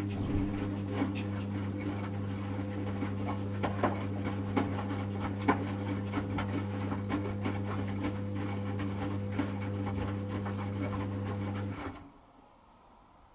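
Servis Automatic M3008B washing machine turning its drum while the water heats: a steady motor hum with the wet clothes tumbling, clicking and knocking inside. It stops suddenly about twelve seconds in, as the drum pauses between turns.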